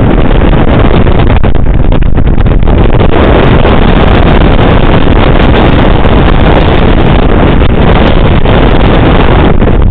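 Strong wind blasting the microphone: a loud, steady, rumbling noise without any pitch or rhythm.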